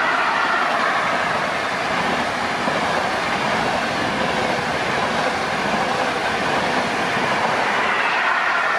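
Train passing through the station without stopping: a steady, loud rumble and clatter of wheels on the rails, with a faint high squeal from the wheels.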